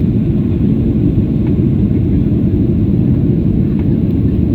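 Steady low rumble inside the cabin of a Boeing 737-800 climbing after take-off: its CFM56-7B turbofans at climb thrust mixed with airflow noise.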